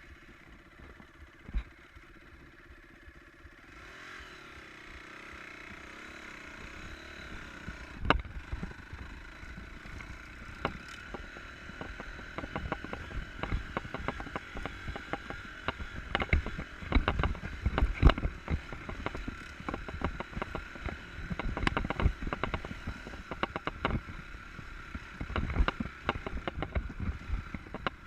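Enduro motorcycle engine running low and steady, then rising as the bike gets going about four seconds in. Frequent knocks and clatter from riding over rough ground get denser through the second half.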